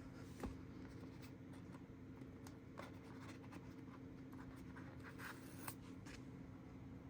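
Faint scraping and rustling of a smartphone's cardboard box and packaging being opened by hand, with sharp taps about half a second in and again near the end, over a steady low hum.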